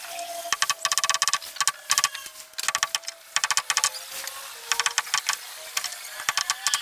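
Short bursts of rapid rattling clicks with a ringing tone, repeated every half second to a second, from a tool at work on wood.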